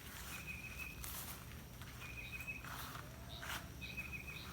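A small animal's short, buzzy trilled call at one steady pitch, repeating about every two seconds, with a few soft footsteps rustling through plants.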